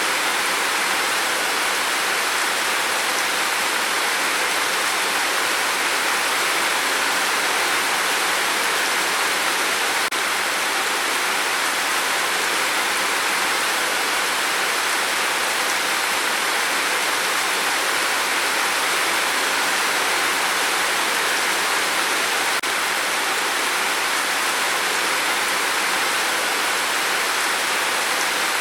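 Steady rain on a tin roof: an even, unbroken hiss with no letup.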